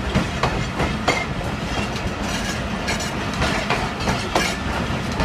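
Passenger coaches of a diesel-hauled express rolling past on the track: irregular clunks of the wheels over rail joints over a steady low rumble.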